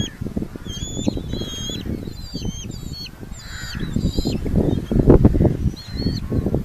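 Red-footed falcons at the nest giving a quick run of short, high, repeated calls, over a low rumbling at the nest-box microphone that swells about five seconds in.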